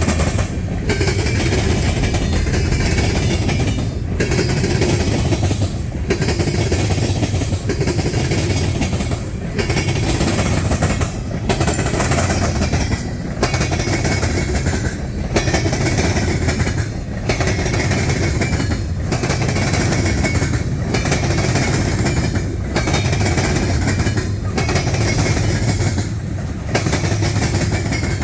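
Canadian National freight train's cars rolling past, steel wheels clicking over the rail joints, the noise dipping briefly about every two seconds.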